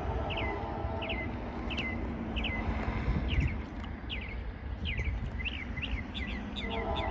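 A small bird calling over and over with short double chirps, at first about one every second and quickening near the end. Underneath is a low outdoor rumble and a steady hum that fades about a second in and comes back near the end.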